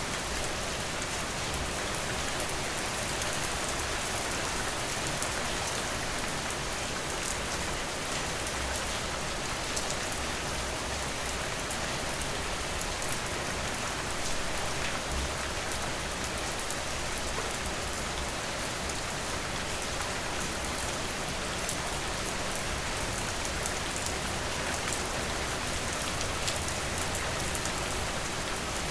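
Steady rain falling, a constant hiss with many small drops tapping.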